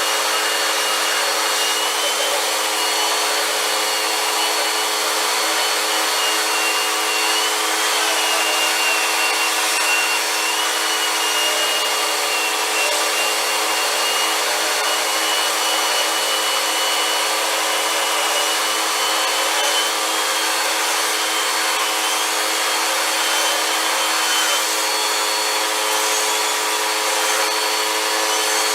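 Vacuum cleaner running steadily, its motor giving a continuous high whine that wavers slightly in pitch, with rushing airflow.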